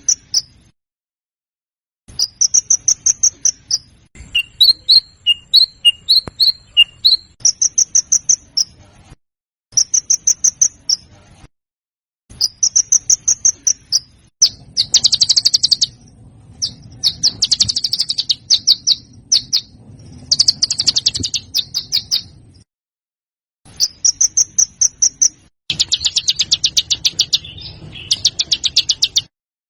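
Songbird song: short, rapid, high-pitched chattering trills repeated in phrases of a second or two with brief silent gaps. Some phrases in the middle and near the end are harsher, rougher rattles. A few seconds in, a string of separate lower single notes sounds under the trills.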